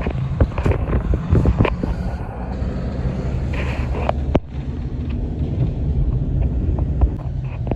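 Motor vehicle road noise: a steady low rumble with scattered short clicks and knocks, dipping briefly about four and a half seconds in.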